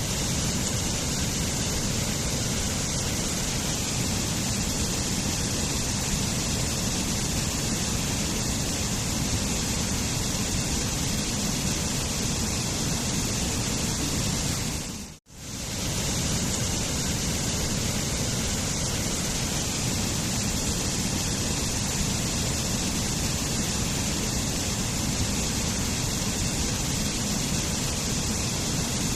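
Waterfall: a steady rush of falling water, cutting out for a split second about halfway through and then resuming.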